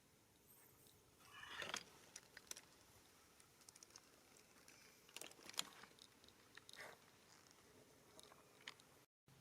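Faint, scattered crunches and clicks, with a brief rustly burst about a second and a half in and a few sharper clicks later.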